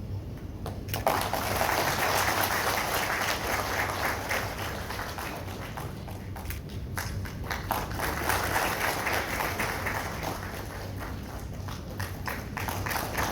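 Audience applauding, starting about a second in; the clapping thins out partway through and picks up again.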